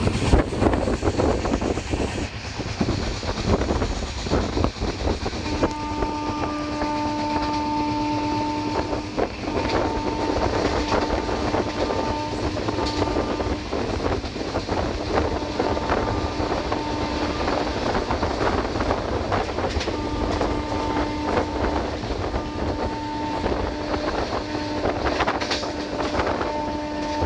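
Train running on the rails with a steady rumble and wheel clatter, and a train horn sounding in long, repeated blasts from about five seconds in.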